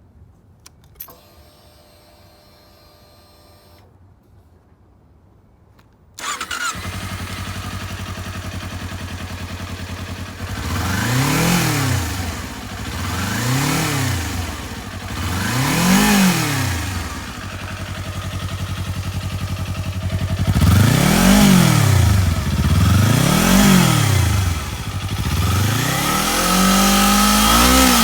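Kawasaki Z250's parallel-twin engine, with its stock muffler, starting about six seconds in after a few seconds of a faint whine, then idling. It is revved in short blips, three and then after a pause two more, and held at higher revs near the end.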